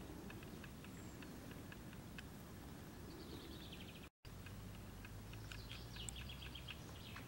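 Quiet outdoor ambience by a lake with a low steady rumble and small birds chirping, including a rapid high trill just before the middle and another near the end. The sound cuts out for an instant about four seconds in.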